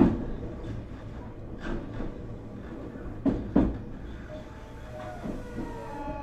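Nankai 8300 series electric train car rolling along, its wheels clacking over rail joints, once and then in a pair about three seconds in, over a steady running rumble. Near the end, the whine of its IGBT VVVF inverter and Toyo Denki totally-enclosed induction motors comes in: its tones slide downward, then hold as a steady high whine.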